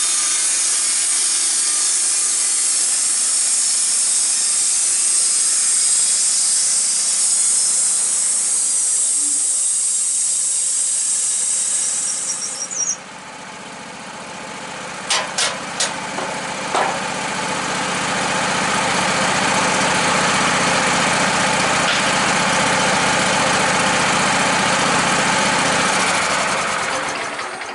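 Engine-driven sawmill cutting through a log, a loud steady sawing hiss. About 13 seconds in the cut sound drops away and a few sharp knocks follow. The engine then runs on steadily and dies away near the end.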